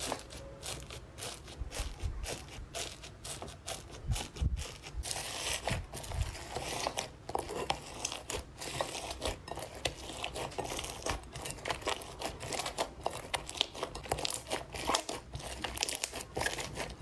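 Slime being worked by hand, giving a dense run of small crackles and pops that grows thicker from about five seconds in.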